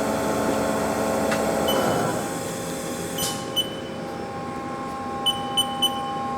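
Haas SL-10 CNC lathe spindle running smoothly and quietly at 1500 RPM, then winding down about two seconds in. A steady machine hum remains, and the control gives several short high beeps, as from keys being pressed to set the next speed.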